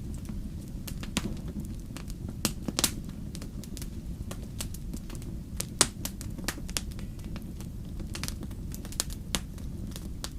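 Wood fire crackling: a steady low rumble of burning with frequent irregular snaps and pops, a few of them sharper and louder.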